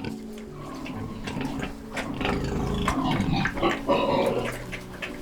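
Pig grunting: a run of short, irregular grunts, loudest in the middle.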